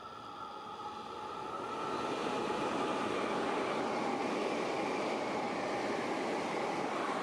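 Meitetsu electric train approaching, growing louder over the first two seconds, then running past steadily as a loud rushing noise with a steady whine.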